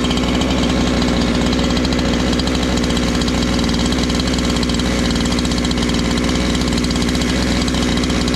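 Husqvarna 345 chainsaw's two-stroke engine running steadily at idle after a rebuild, warming up before its carburettor is tuned.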